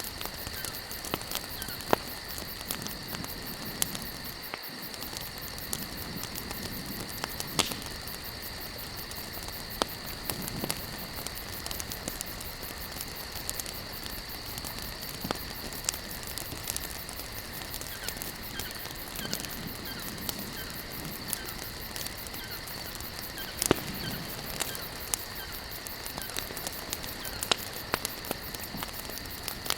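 Wood campfire burning and crackling, with irregular sharp pops and snaps over a steady hiss, the loudest pops about 2 s, 8 s and 24 s in. A steady high-pitched background tone runs beneath.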